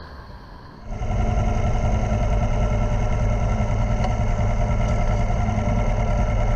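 Motorcycle engine running steadily at a constant speed, cutting in abruptly about a second in after a quieter moment.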